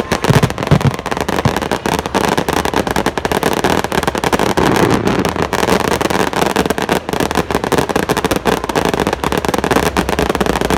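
Fireworks going off in a dense, continuous run of rapid crackling pops over a low rumble.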